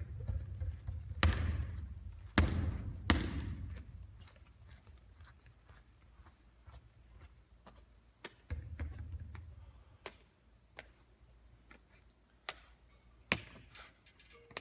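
Basketball bouncing on a hard court: three loud, echoing bounces in the first few seconds, then scattered lighter taps and knocks, with another sharp bounce near the end.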